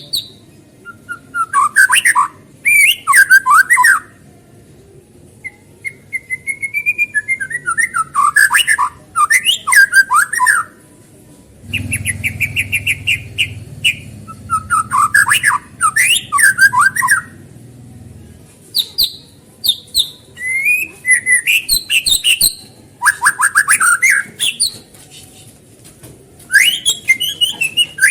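White-rumped shama (murai batu) singing: loud bursts of varied whistled phrases and rapid chattering trills, separated by short pauses.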